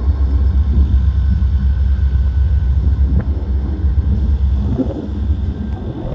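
Low, steady rumble of a passing train, easing slightly near the end.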